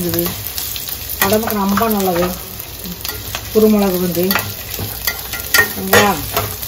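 Sliced onions, garlic and dried red chillies frying and sizzling in oil in a stainless steel kadai, stirred with a slotted metal spatula that scrapes and knocks against the pan, the knocks clustering about six seconds in.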